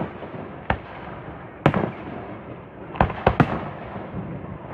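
Fireworks display: sharp bangs of fireworks bursting, one about a second in, another near two seconds, then three in quick succession a little past three seconds, over a continuous crackle.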